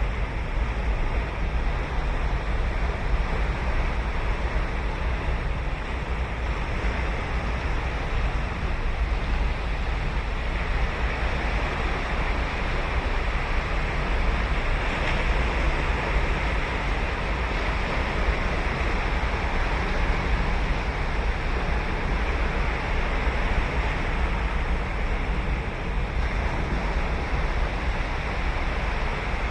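Ocean surf: waves breaking and washing ashore in a continuous wash, with a steady low rumble underneath that swells slightly in the middle.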